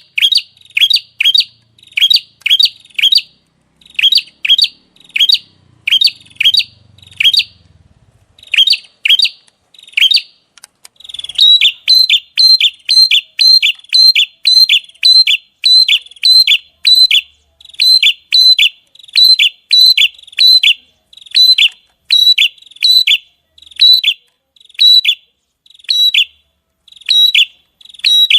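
A small songbird repeating sharp, high call notes over and over, about two or three a second, in the rapid 'shot' (tembakan) style prized in masteran recordings. After a brief pause about ten seconds in, the notes carry on in a steadier run.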